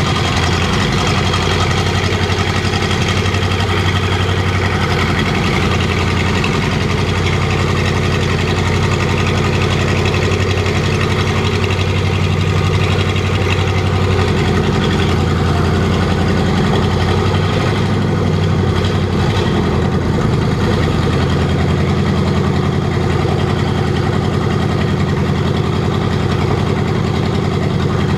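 ZIL-131 V8 petrol engine on a test stand, idling steadily with slight variations in speed.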